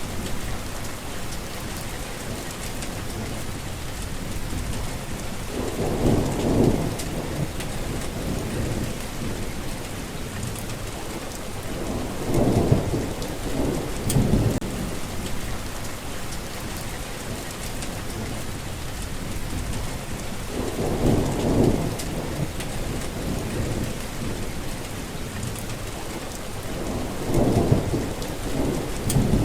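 Steady rain falling, with low rolls of thunder swelling and fading about four times.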